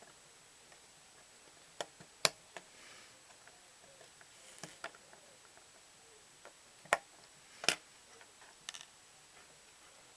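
Lego plastic parts clicking and snapping: about seven separate sharp clicks, the loudest a little after two seconds in and twice near three-quarters through, as the wheels are pressed onto the axles.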